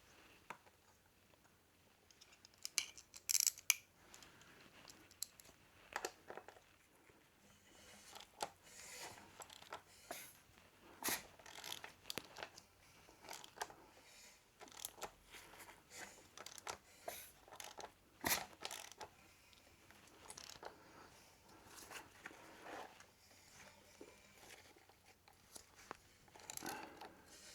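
Faint, irregular clicks, rubs and scrapes of hands working a rubber toothed cam belt onto the pulleys of a Moto Morini 3½ V-twin engine as the engine is turned over.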